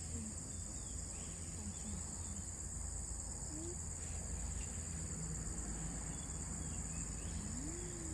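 Steady high-pitched outdoor insect chorus, with a low rumble underneath and a faint wavering call near the end.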